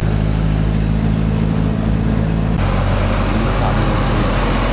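Heavily loaded Hino truck's diesel engine running with a steady low drone. About two and a half seconds in, its pitch and tone change abruptly.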